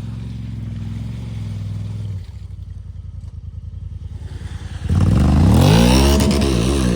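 A vehicle engine running steadily, then revved hard about five seconds in, its pitch climbing and falling and then wavering under throttle while it pulls against a tow rope in mud.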